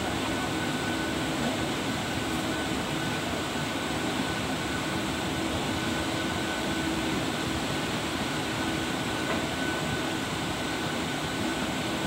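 Steady running noise of a goods train's freight wagons rolling past close alongside a moving local train, wheels and bogies on the rails, with a thin steady whine through it.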